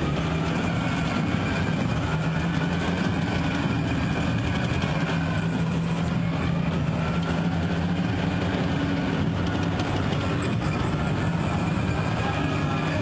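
Heavy vehicle engines running steadily under a dense, constant rumble, with faint wavering higher tones on top.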